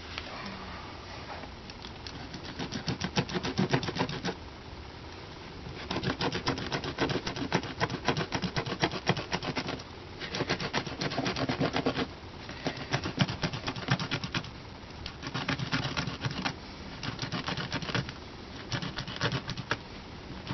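Staple gun driving staples through carpet into the RV steps: stretches of rapid clicking a few seconds long, with short pauses between them.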